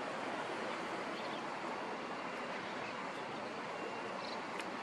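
Tobu 8000 series electric train rolling slowly past, a steady wash of running noise with a single sharp click near the end.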